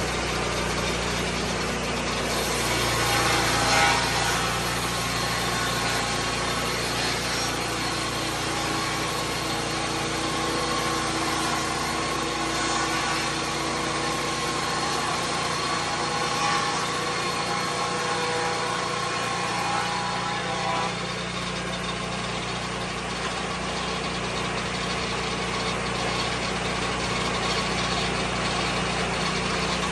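Lucas Mill 10-30 swing blade sawmill running steadily, its engine and spinning blade giving a dense, continuous noise. For a stretch in the middle, extra whining tones lie on top; they drop away about 21 seconds in, when the pitch of the running changes slightly.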